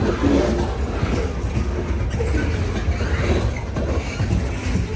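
Covered cement hopper cars of a freight train rolling past on the rails: a steady low rumble of wheels on track, with a few short squeals.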